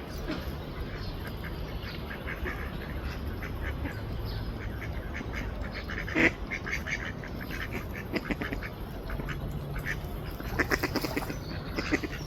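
A duck giving short, soft quacks in irregular runs, with a louder call about six seconds in and a quick string of calls near the end, over a steady low rumble.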